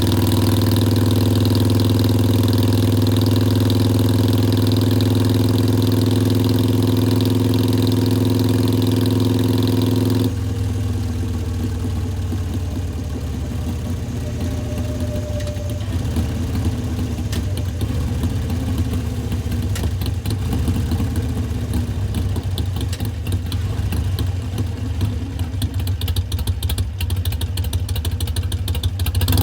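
A 2019 Harley-Davidson Sportster Iron 883's air-cooled 883 cc V-twin idling through Vance & Hines Twin Slash slip-on mufflers, first at a steady, higher idle. About ten seconds in, the sound drops abruptly to a quieter, uneven lumpy beat, the loping idle known as 三拍子 (three-beat).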